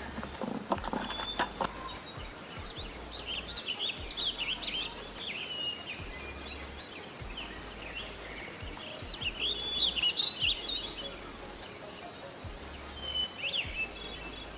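Small birds chirping and twittering in quick calls that swoop up and down, in bursts about a quarter of the way in, louder around two-thirds through, and once more near the end. A few low knocks sound in the first two seconds.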